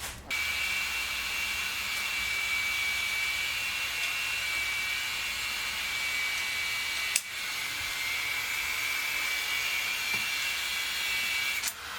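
A small electric motor running steadily with a high whine, like a power tool. It cuts out briefly about seven seconds in, starts again, and stops near the end.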